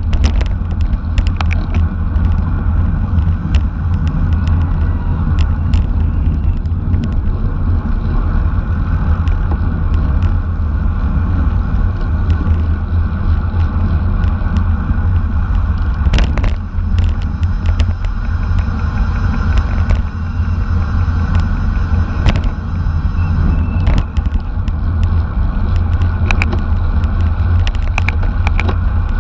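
Steady low wind rumble on the microphone of a camera carried on a bicycle at racing speed, with road and tyre noise and scattered sharp clicks and knocks from the bike.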